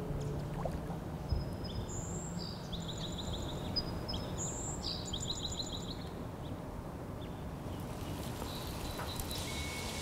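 A songbird sings several quick phrases of high whistles and buzzy trills over a steady low outdoor rush. The birdsong fades out about halfway through.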